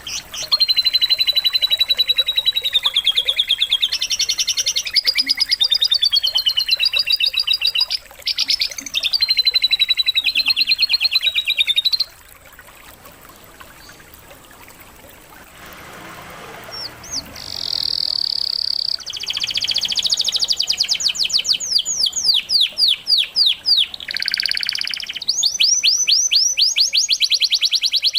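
Canary singing long, rapid high trills, a song filled with lovebird-like phrases. The song breaks off for about five seconds in the middle, then resumes with fast repeated trills.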